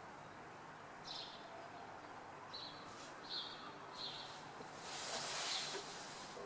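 Small birds chirping: four short, high single notes about a second or less apart, over a steady low background of town noise. About five seconds in, a louder rushing hiss swells and fades.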